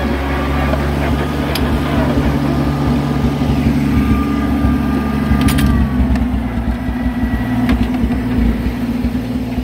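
Oliver 770 tractor engine running steadily, with a few sharp clicks over it.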